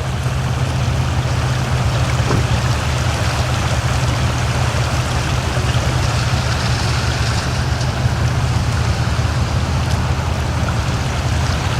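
The flooded Truckee River rushing steadily, running high, with a steady low hum underneath.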